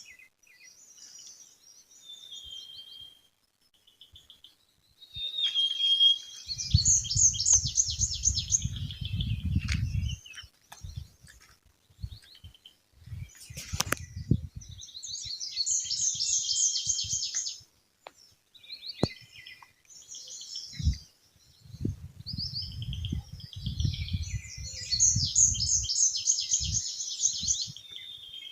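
Songbirds chirping and singing, with three long bursts of rapid trilled phrases on top of scattered shorter calls. A low rumble sits under the first and last bursts, and there are a few sharp clicks around the middle.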